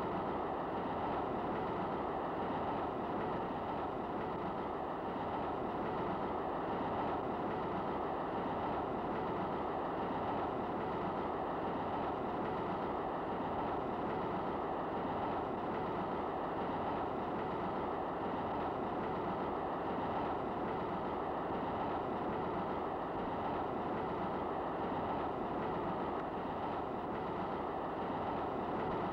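Passenger train running, heard from inside a compartment: a steady rumble with the rattle of the wheels on the rails.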